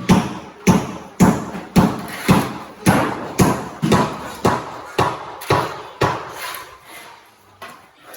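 A steady series of thuds, about two a second, weakening after about six seconds.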